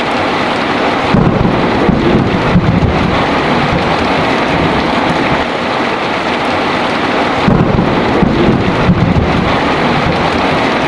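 Heavy rain falling steadily, with thunder rumbling low twice, about a second in and again past the middle.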